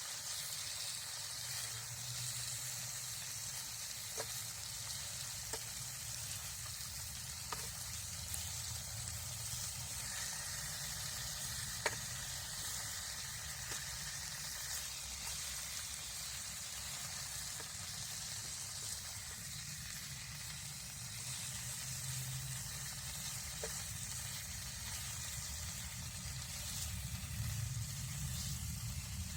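Wood campfire burning: a steady hiss with a few sparse, sharp pops, the loudest about twelve seconds in.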